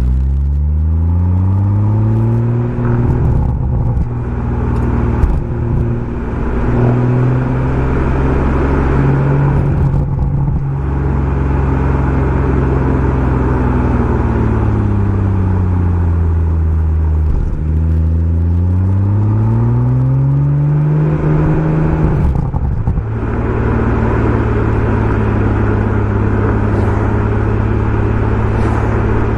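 BMW M140i's turbocharged three-litre straight-six through a Remus aftermarket exhaust under way: the revs climb, hold steady, ease off and climb again, with a few short breaks in the sound where the throttle lifts or the gear changes.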